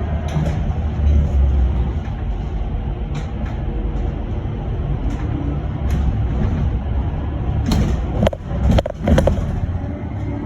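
Inside an electric bus driving along: steady low road rumble and hum, with a faint motor whine gliding in pitch near the start, and a few sharp knocks and rattles about eight to nine seconds in.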